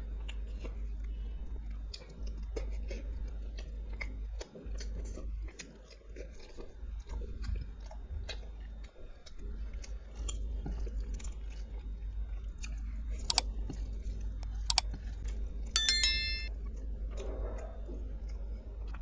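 Close-miked chewing and crunching of food, many small wet clicks. Near the end come a few sharp clinks, the last one ringing briefly like a utensil struck on a plate or glass.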